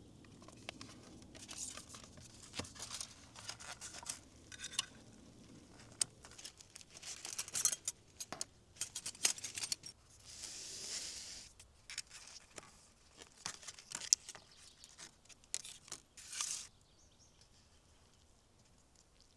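Irregular crinkling and tearing handling noises with many sharp clicks, including one longer rustling tear about halfway through; it stops about three seconds before the end.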